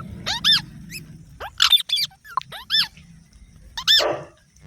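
Green parrots giving short, high, squeaky calls: about half a dozen brief rising or arched chirps with short gaps between them.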